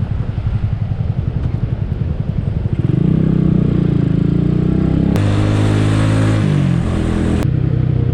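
Skygo Earl 150 motorcycle's single-cylinder CG150 engine running on the road, picking up revs about three seconds in and easing off near the end. A loud hiss covers the middle stretch, starting and stopping suddenly.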